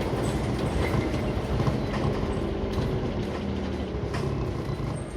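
Scania OmniCity single-deck bus heard from inside the cabin: the engine runs steadily under a constant drone, with light rattles and clicks from the interior. The engine note drops a little past the midpoint, and the sound gets quieter near the end.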